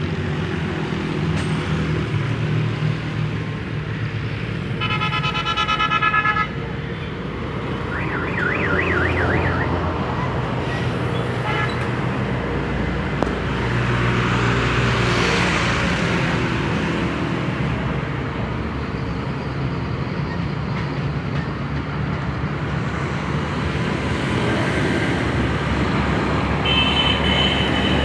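A vehicle engine running steadily, with a horn sounding about five seconds in and again near the end, and a warbling horn tone at about eight seconds.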